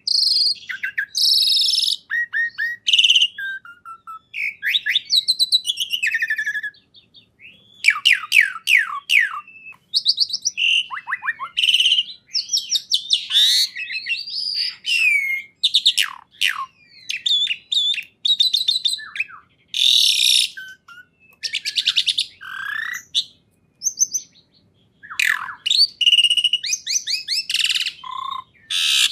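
A songbird singing a long, varied song: rapid trills, fast runs of repeated chirps and whistled notes that sweep up and down, broken by short pauses.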